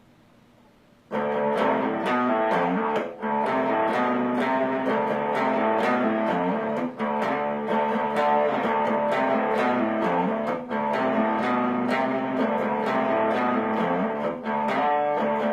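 Instrumental introduction of a song played on guitar, starting about a second in after near silence, with an even rhythm of strokes.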